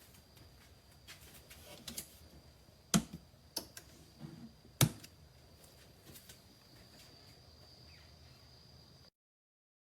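A few sharp knocks and clicks, the two loudest about three and five seconds in, over a quiet room with a faint steady high whine; the sound cuts out suddenly near the end.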